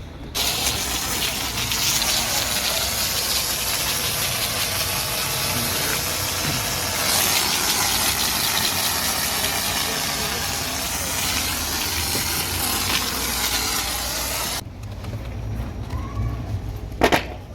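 High-pressure car-wash spray hissing steadily for about fourteen seconds, then cutting off abruptly. A low hum carries on after it, with a single sharp click near the end.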